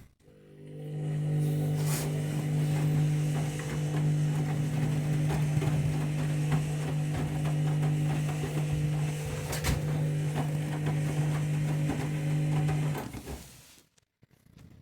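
Candy Grand'O Vita 7kg washing machine running in its main wash: a steady motor hum with the patter of clothes and water in the drum. It builds up over about a second and stops about thirteen seconds later.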